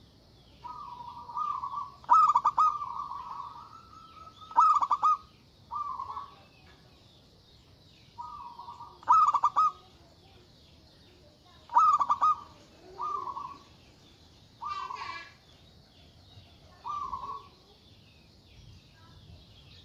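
Zebra dove (perkutut) cooing in repeated phrases, each a run of low notes with a few loud stuttered notes, one phrase every few seconds. A faint steady high chirring runs underneath.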